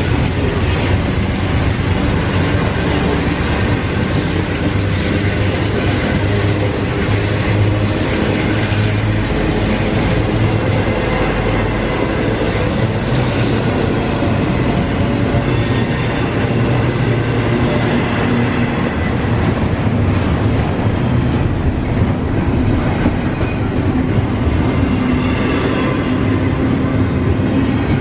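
CSX intermodal freight train rolling past at speed, its cars' wheels running steadily and loudly on the rails.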